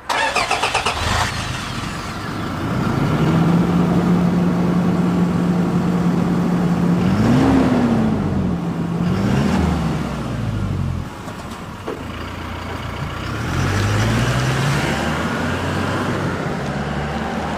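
Toyota Hilux GUN125's 2.4 L four-cylinder turbo-diesel running at low speed through a Ganador P.B.S. sports muffler, with a steady exhaust drone. Its pitch rises and falls around the middle and rises again a little later as the speed changes.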